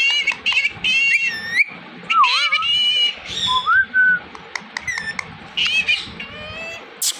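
Indian ringneck parrot calling: a run of short, high chirps and squawks with a few wavering whistles in between.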